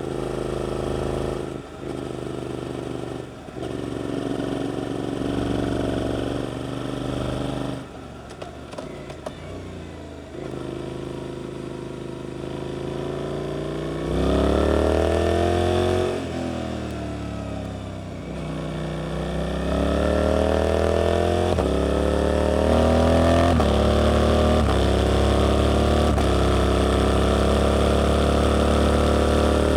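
Suzuki GSX-8S parallel-twin with an Arrows aftermarket exhaust, ridden under way: revs rise and fall with gear changes and the throttle eases off for a while. From about halfway the engine pulls up in pitch, drops back, then climbs through several quick upshifts and settles into a steady cruise near the end.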